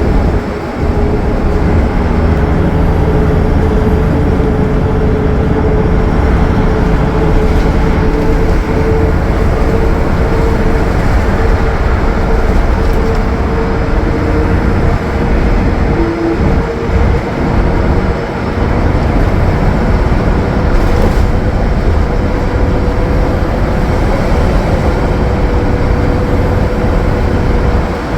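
Cummins ISL9 diesel of a Gillig Low Floor transit bus running at highway cruise, with heavy low road and drivetrain rumble and a steady whine holding nearly one pitch.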